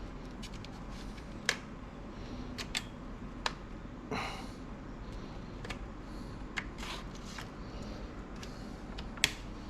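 Scattered sharp plastic clicks and a brief scrape about four seconds in, from a laptop's plastic case and its snap clips being worked and pried apart by hand, over a steady low hum.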